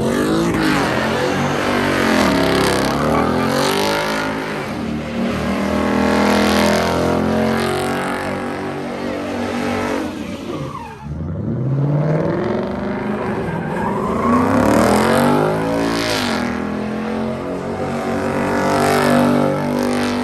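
A car engine revving hard over and over, its pitch sweeping up and falling back several times, over a steady rushing noise.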